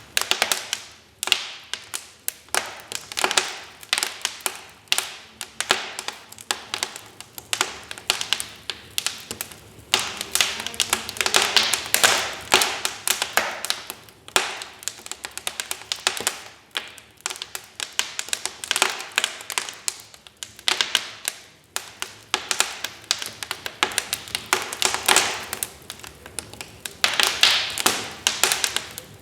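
Wood fire crackling: dense, irregular snaps and pops coming in clusters, with short lulls between them.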